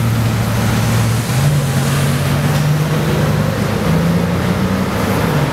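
Bugatti Veyron Grand Sport Vitesse's quad-turbocharged W16 engine pulling away at low speed, a steady drone that steps up in pitch about a second in and again briefly later on.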